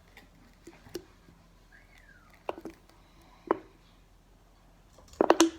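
A few light knocks and taps of things being handled on a table, then a short louder cluster of sharp sounds near the end.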